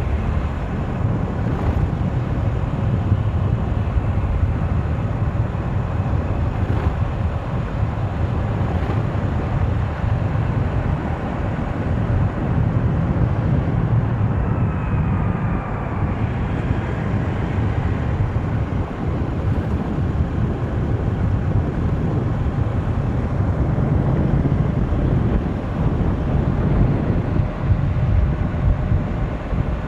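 Motorcycle ridden at high speed, with steady heavy wind rush over the microphone and the engine running beneath it.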